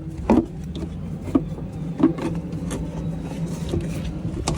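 Hand tools clinking and knocking on a Cat C7 engine while the valve cover bolts are being removed, a few separate sharp knocks over a steady low hum.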